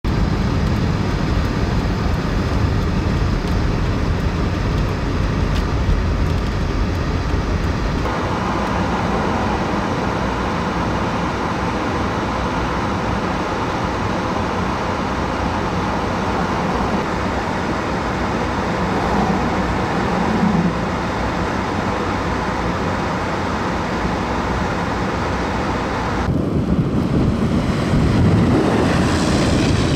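Steady road noise of a vehicle driving on a snow-covered highway: tyre and engine rumble under a constant rush. The sound changes abruptly about eight seconds in, and grows louder and rougher near the end.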